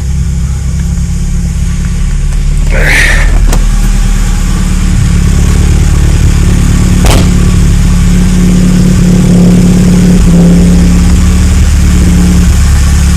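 Honda H22A 2.2-litre DOHC VTEC four-cylinder running at a steady idle shortly after a cold start in freezing weather. Its low note fills out about five seconds in, and there are a couple of brief clicks.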